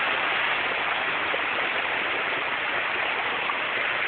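River running high, its rushing water a steady hiss with no breaks.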